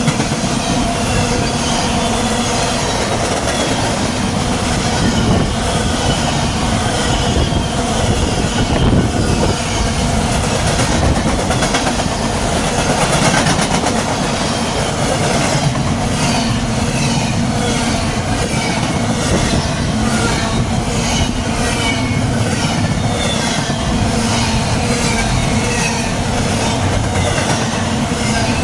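Freight train cars rolling past: steel wheels clicking steadily over rail joints, with a squeal from the wheels and a steady rolling rumble underneath.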